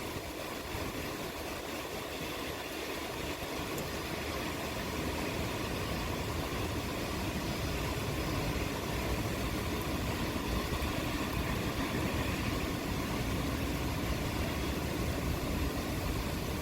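Steady rain falling, with a low rumble that builds about four seconds in and then holds.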